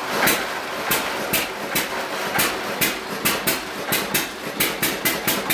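1924 John Deere E series hit-and-miss engine running with a sharp, regular beat that comes faster toward the end: it is firing more often now that the full generator load has been switched on.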